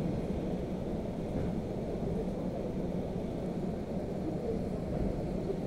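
Suburban electric train running at speed, heard from inside the carriage: a steady low rumble of wheels on rails with no break or change.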